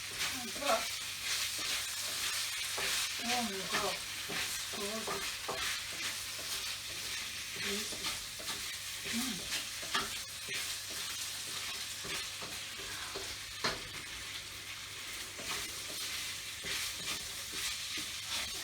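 Food sizzling steadily in a hot frying pan while it is stirred, with a few sharp clacks of the utensil against the pan.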